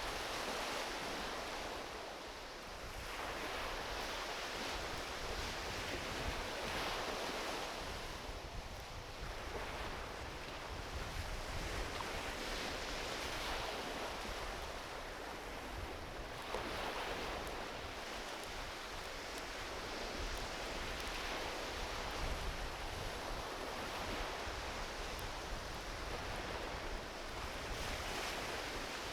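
Gentle ocean waves washing onto a beach: a steady hiss that swells and fades every few seconds.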